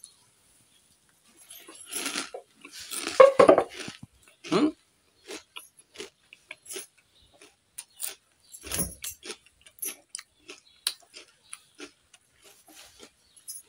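Close-up chewing of a mouthful of jhal muri, spiced puffed rice: a few louder mouth sounds in the first seconds, then a long irregular run of small crisp crunches and clicks.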